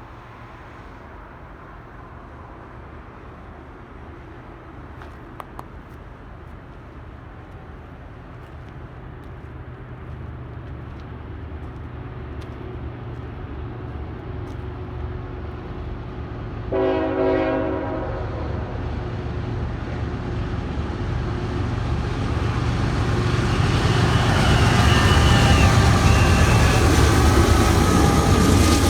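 Diesel freight train approaching, its locomotive rumble growing steadily louder. One short horn blast sounds about halfway through, and the train is loudest near the end as it nears the crossing.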